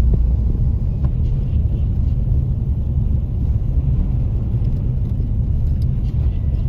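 Steady low rumble of a car driving slowly on a snow-covered road, heard from inside the car.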